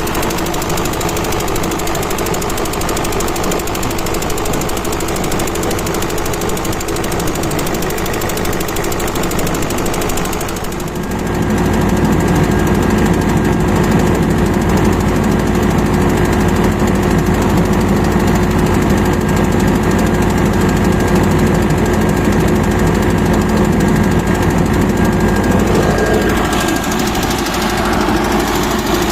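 Kirloskar Koel 4R diesel engine running steadily with a rapid, even pulse. About eleven seconds in it dips briefly, then runs louder and heavier, easing back slightly a few seconds before the end.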